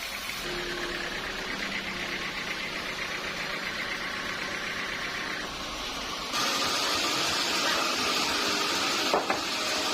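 Sawmill machinery running with a steady mechanical hum and noise. Its character shifts abruptly twice and it gets louder about two-thirds of the way in, with one short knock near the end.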